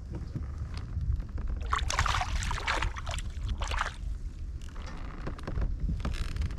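Water splashing and sloshing beside a kayak in several bursts, the strongest about two seconds in, over a steady low rumble of wind on the microphone.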